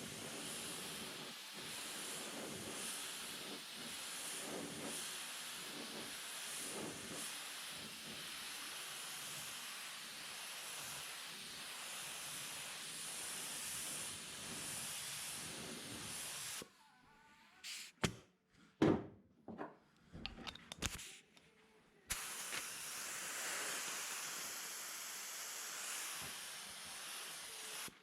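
A steady hiss from a workshop tool, pulsing slightly, that cuts off abruptly about two thirds of the way in. A few separate knocks and clicks follow before the hiss starts again near the end.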